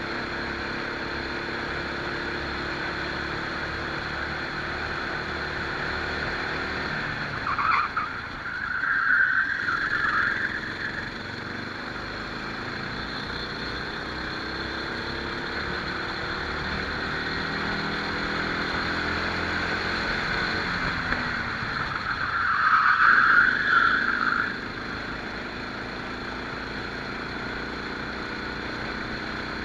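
Rental kart engine heard onboard, running at speed, its pitch dropping into the corners. The tyres squeal twice, about eight seconds in and again about twenty-two seconds in, as the kart slides through turns.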